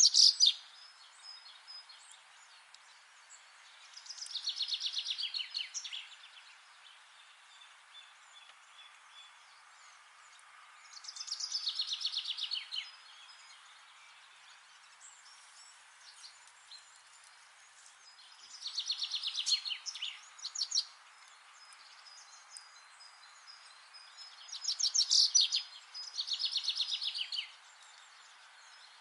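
A songbird singing a short phrase of rapid notes that falls in pitch. It repeats every several seconds, twice in quick succession near the end, with faint scattered chirps and a steady soft hiss in between.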